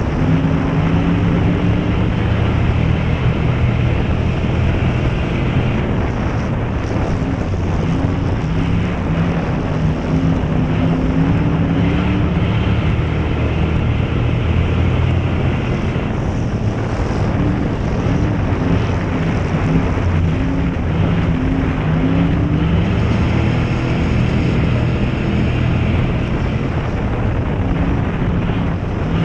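Ford Crown Victoria dirt-track race car's engine running hard under racing load, heard from inside the car, its pitch rising and falling over and over.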